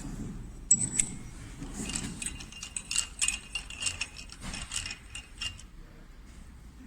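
Small metal tools and parts clicking and clinking as they are handled, a rapid irregular series of light metallic knocks with brief ringing that dies away near the end.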